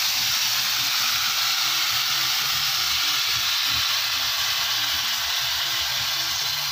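Beans and vegetables sizzling and steaming hard in a wide frying pan over a wood fire, just after the beans went into the hot, buttery pan. The sizzle is a steady, loud hiss.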